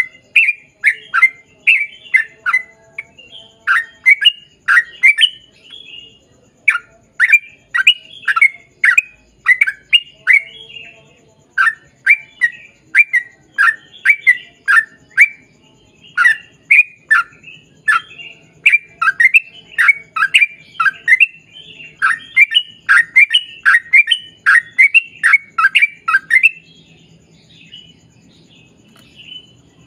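Yellow-vented bulbul (trucukan) singing a long, rapid run of loud, falling chirps, several a second, with brief pauses between phrases. It fades to fainter notes near the end.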